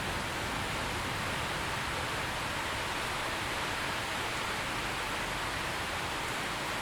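Steady rain falling, an even hiss with no single drops, thunder or other events standing out.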